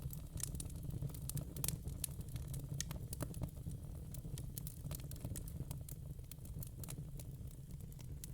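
Wood fire in a fire pit crackling, with irregular sharp pops and snaps over a steady low rumble.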